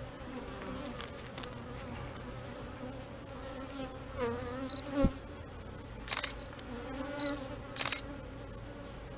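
Honey bees buzzing steadily around an open hive as a frame of brood is lifted and turned. There is one sharp knock about five seconds in and two short scraping rasps a second or so later.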